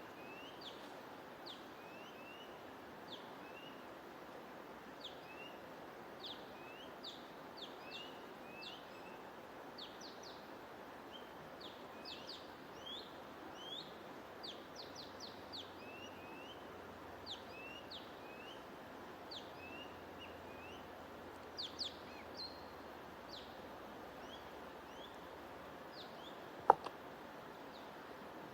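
Small songbirds chirping busily, in quick short rising and falling chirps, over a steady even hiss of white noise or flowing water. A single sharp click sounds near the end and is the loudest thing heard.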